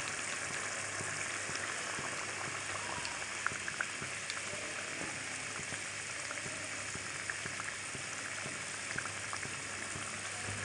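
Tomato, ginger-garlic and spice masala frying in oil in a steel pan: a steady sizzle with scattered small pops, a few louder ones about three and a half seconds in, while beaten eggs go into it.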